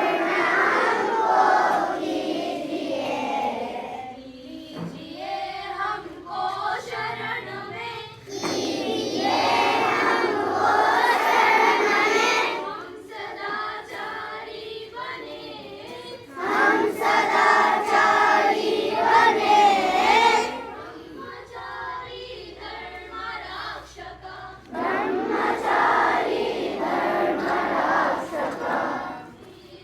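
A group of schoolchildren singing together in unison, in loud passages of about four seconds that come back roughly every eight seconds, with quieter voices in between.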